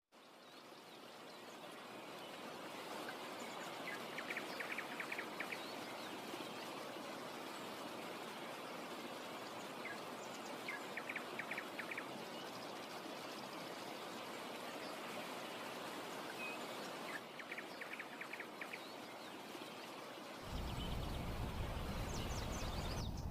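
Steady rush of running water fading in, with a small bird giving a quick trill three times. About twenty seconds in, a deep low rumble joins and the sound gets louder.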